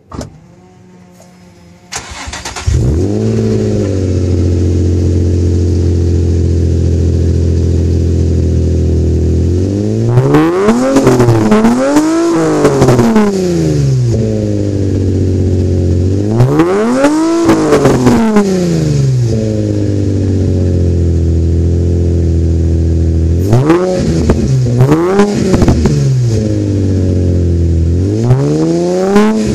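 2005 Infiniti G35 coupe's 3.5-litre V6 cold-started through an Injen titanium-tip dual exhaust with a Magnaflow X-pipe, recorded right at the exhaust tip. It cranks and catches about two seconds in, settles into a steady high cold idle, and is then revved several times, each rev climbing and falling back to idle.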